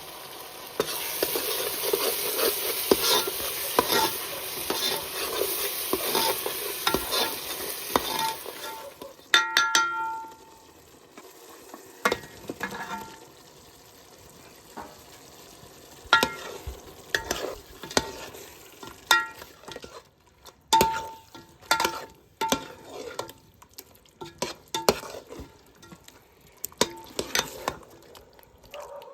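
Food sizzling loudly as it fries in a pot for about the first eight seconds. Then a spoon stirs and scrapes the pan, with scattered sharp clinks and knocks against the metal.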